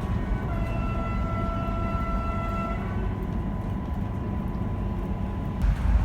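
EN57 electric train running, a steady rumble of wheels on track, with a horn sounding once for about two seconds near the start. Just before the end the running noise suddenly gets louder and brighter.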